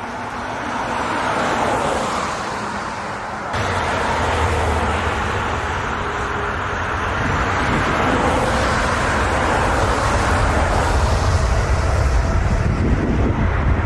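Large jet airliner's engines running loud, a dense rush of noise with faint sliding tones. About three and a half seconds in the sound changes abruptly and a deep rumble joins in.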